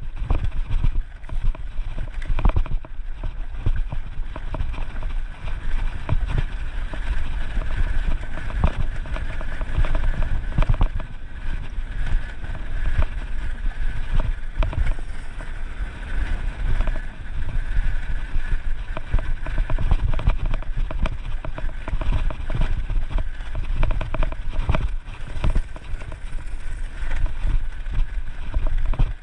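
Dirt bike riding over rough ground: the engine runs under a heavy rumble with irregular knocks from the bumps.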